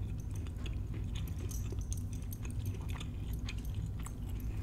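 A person chewing a mouthful of jumbo lump crab cake with the mouth closed, close to the microphone: soft, wet mouth clicks scattered over a steady low hum.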